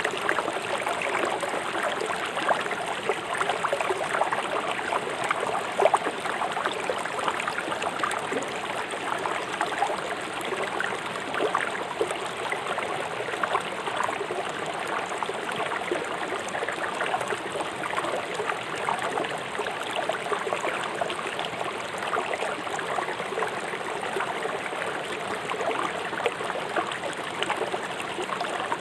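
A river flowing swiftly over stones, a steady rushing with close splashing and gurgling.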